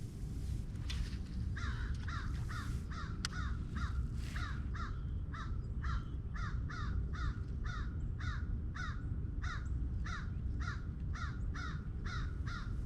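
A bird calling in a fast, even series of short, harsh notes, about three a second, over a steady low rumble.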